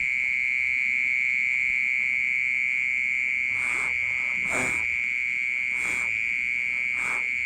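Continuous, loud, high-pitched ringing drone from an unseen creature hidden in a flower pot, steady in pitch and unbroken, more like a machine such as a water pump than a cricket's chirp. Four brief soft noises break over it in the second half.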